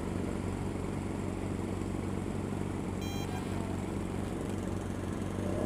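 Motorcycle engine idling steadily, with a brief high-pitched electronic beep about three seconds in.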